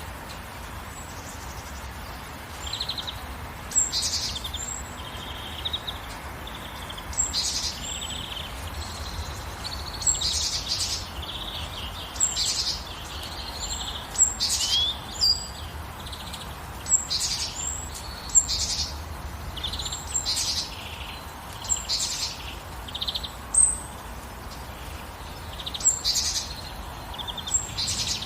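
Songbirds chirping and calling, with short high calls coming every second or two over a steady hiss of rain.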